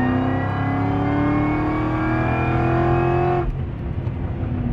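Cammed, supercharged 6.2-litre V8 of a Cadillac CTS-V at full throttle in fourth gear, its pitch rising steadily through a tuning pull from about 3,000 to 5,000 rpm. It cuts off suddenly about three and a half seconds in as the throttle closes at the end of the pull.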